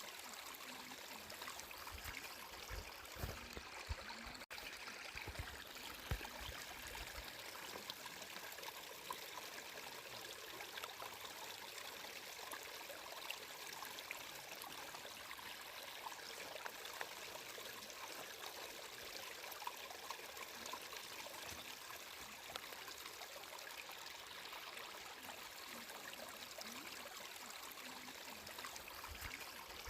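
Flowing water running steadily, like a stream, with a few brief low pulses in the first several seconds.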